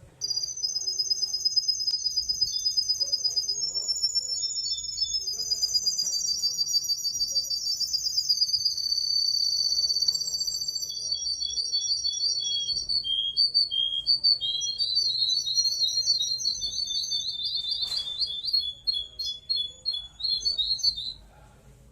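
Songbird singing a long, very high, rapid trill that steps between pitches, then turns into choppier, more varied trilled phrases in the second half, stopping abruptly near the end.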